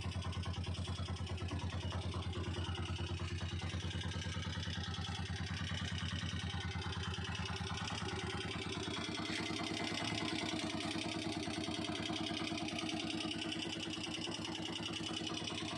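Honda TMX125 Alpha's single-cylinder four-stroke engine idling steadily, its exhaust pulsing in an even rapid beat.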